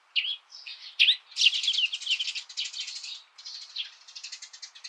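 Songbirds singing: quick high chirps and whistled notes, then a fast, rattling trill in the second half.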